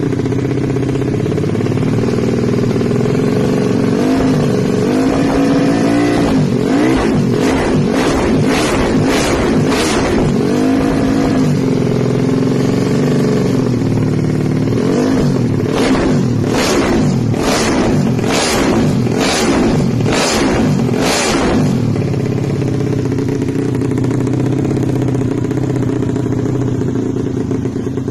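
Yamaha Jupiter Z race-tuned single-cylinder four-stroke engine idling, then revved in two runs of quick throttle blips, about two a second, before settling back to idle.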